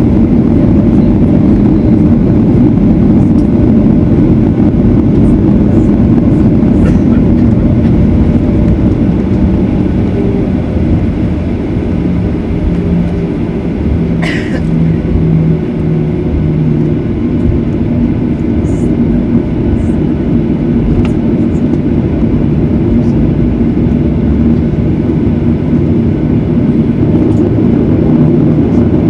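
Boeing 737-900ER jet engines and airframe rumble, running steadily and loudly during the takeoff sequence, with one sharp click about halfway through.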